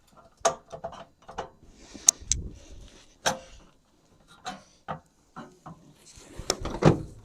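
Irregular metallic clicks and knocks of hand tools being handled: a socket and wrench being fitted onto a bolt and worked, with the clicks coming more often near the end.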